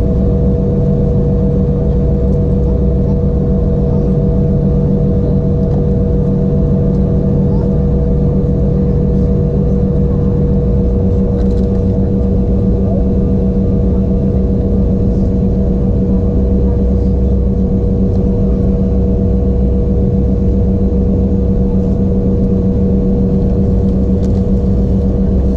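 Steady cabin drone inside an Embraer E175 as its twin GE CF34 turbofans run on the ground: a constant hum with several steady whining tones. One lower tone drops out about ten seconds in.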